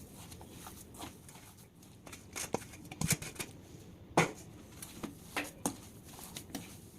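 Boiled potato and soaked poha being mashed together in a bowl: soft irregular squishing with scattered light knocks against the bowl.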